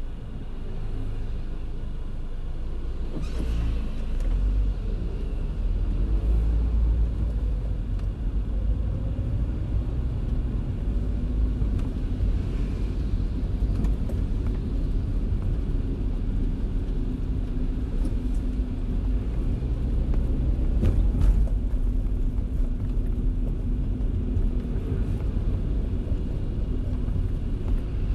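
Car driving in the rain: a steady low rumble of road and engine noise that builds over the first few seconds, with a couple of brief sharp clicks or splashes.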